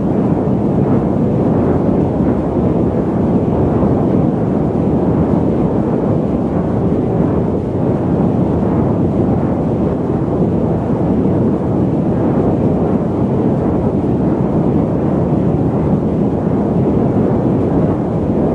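Airliner cabin noise during flight: a steady, deep rushing hiss that holds unchanged throughout.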